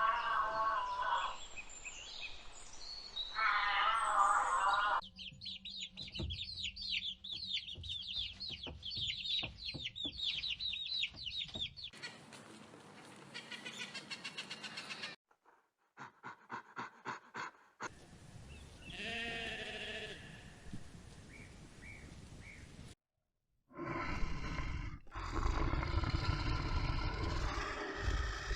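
A string of short animal-call clips, one after another with abrupt cuts: pitched calls at first, then rapid high chirping, a quick pulsing sound, another pitched call, and near the end a loud low growling sound.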